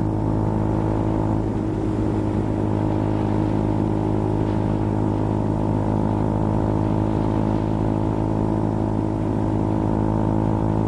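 KTM Duke 200's single-cylinder engine running at a steady cruising speed, its drone holding one even pitch throughout.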